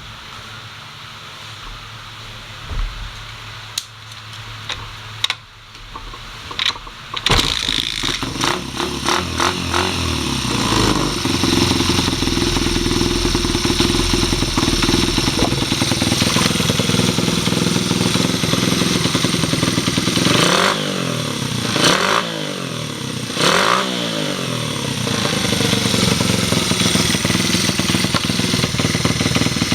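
Honda Ape 100's single-cylinder four-stroke engine being started: a few sharp clunks, then it catches about seven seconds in and settles to a steady idle. Past the middle the throttle is blipped three times in quick succession, each rev rising and falling back to idle.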